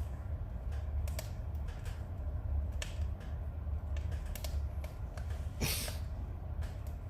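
Firewood burning in a fireplace, crackling with irregular sharp pops and one longer, louder hissing pop late on, over a steady low rumble.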